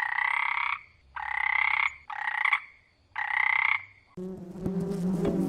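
An animal giving four short croaking calls, each under a second long, spaced about a second apart. About four seconds in they stop and a steady buzzing, music-like sound takes over.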